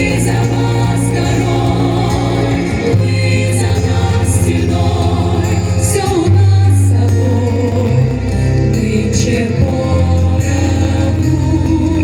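Women's vocal ensemble singing in close harmony over a backing track with long held bass notes that change every few seconds.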